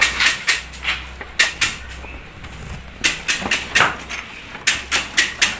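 Slicer-planer machine running with a low steady hum, over a string of irregular sharp clacks and knocks, about fifteen in all. The hum cuts off at the very end.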